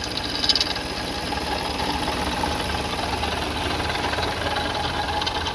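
2004 Toyota Sienna's 3.3L V6 engine idling with a fast, steady rattle. The owner is unsure of the cause and suspects a pulley, the water pump or the timing belt.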